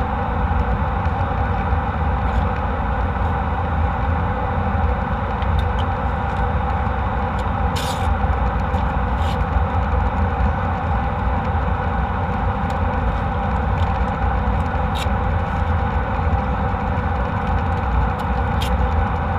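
Steady cabin noise of a jet airliner: engines and airflow make a deep, even rumble with a constant hum above it. A few faint clicks break through now and then.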